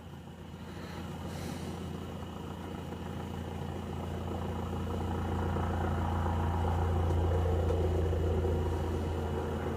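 A steady low hum with a deep drone and faint even overtones, slowly growing louder to a peak about three-quarters of the way through, then easing.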